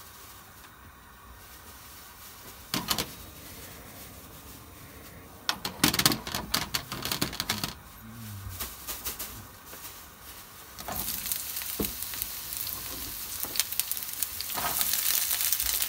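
Cooking oil heating in a nonstick frying pan with a faint hiss and a few scattered pops and clatters. About eleven seconds in, sliced long green onion goes into the hot oil and it breaks into a loud, crackling sizzle.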